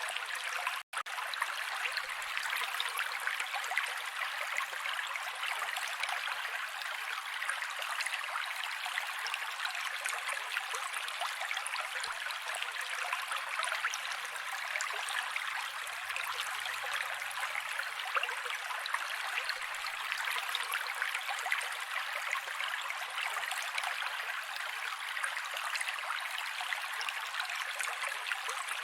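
Mountain creek water flowing steadily, a continuous rushing hiss with no lows, broken only by a split-second gap about a second in.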